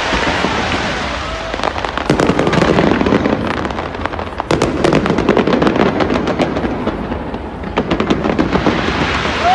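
Fireworks going off: low booming with rapid crackling bursts that come in dense clusters, thickest in the middle and again near the end.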